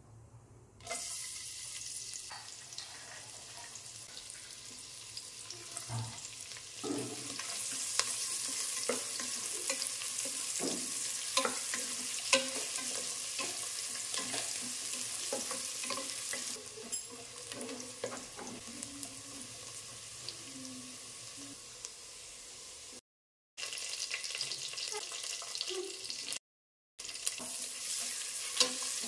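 Sliced onions hit hot ghee in an aluminium pressure cooker and start sizzling about a second in, then keep frying steadily with cashews and green chillies. A wooden spatula stirs them, with scattered scrapes and knocks against the pot; the sound breaks off briefly twice near the end.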